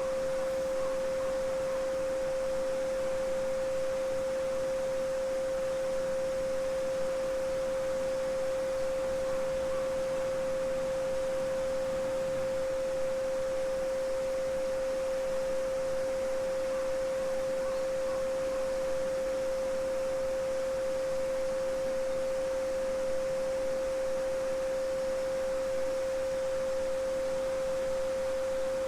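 A steady pure 528 Hz sine tone (the "Solfeggio frequency"), held unchanging, over the soft even rush of a babbling brook.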